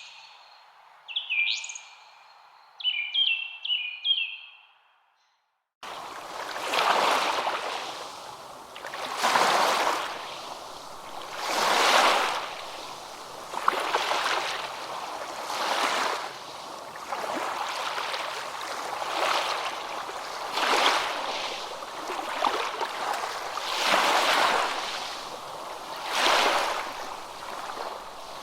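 Small birds chirping in short calls over a faint hiss, fading out about five seconds in. After a brief silence, waves washing in, swelling and easing about every two and a half seconds.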